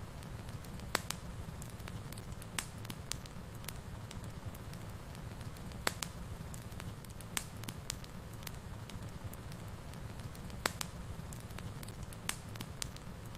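Wood fire burning in a fireplace: a steady low rumble with irregular sharp crackles and pops, a few of them louder than the rest.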